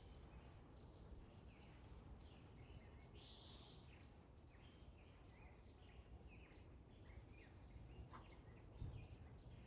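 Faint, repeated short chirps of small birds over a low steady rumble.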